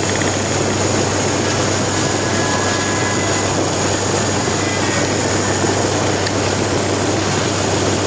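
Cabin noise of an ATR 72 turboprop airliner with its Pratt & Whitney PW127 engines and propellers running, heard from a seat near the front. It is a loud, steady roar with a constant low hum and a thin high whine.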